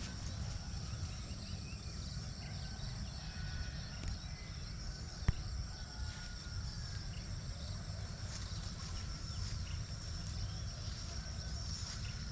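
Insects trilling steadily at a high pitch, with a few faint bird chirps, over a low rumble. A single sharp click comes about five seconds in.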